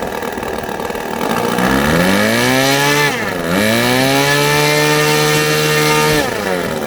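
Saito FA-90TS four-stroke twin model aircraft glow engine on a test run. It is throttled up from idle about a second in, dips briefly, then is held at high revs for about three seconds before dropping back to idle near the end. Its low-speed needle has just been tuned, and it is running much better.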